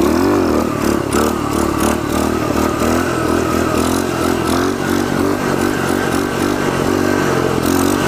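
Pitster pit bike's small single-cylinder engine running under load, its pitch rising and falling again and again as the throttle is worked on and off.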